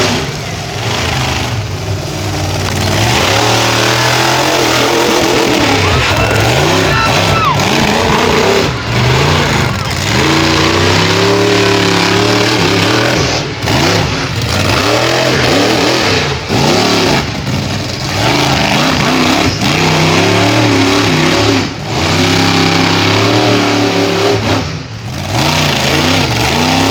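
Monster truck engine revving hard over and over, its pitch climbing and falling with each blip of the throttle, loud and continuous with a few brief lifts off the throttle.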